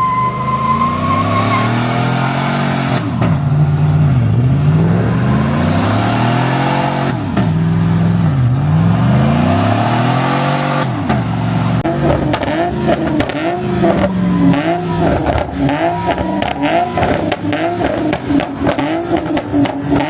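A car engine revving hard, its pitch rising and falling in long sweeps every few seconds. From about twelve seconds in, the revs rise and fall faster, about once a second, with a harsher rough noise over them.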